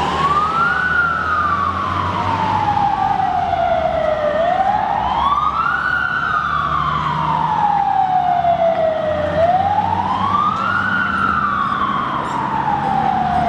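Fire truck siren in a slow wail: each cycle rises quickly, falls slowly and lasts about five seconds, three times over. A steady low engine hum runs beneath it.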